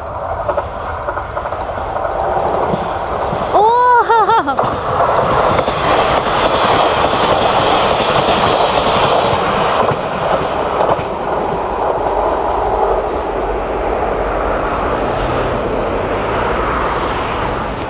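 A diesel local train passing close by at speed: the rolling noise of its wheels on the rails, with a clatter over the rail joints and a low engine rumble as it goes by. A person's brief exclamation about four seconds in is the loudest moment.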